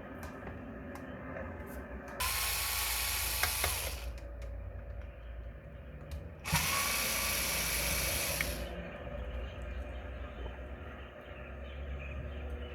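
A small handheld power tool runs in two bursts of about two seconds each, a loud hiss with a steady whine, over a low background hum.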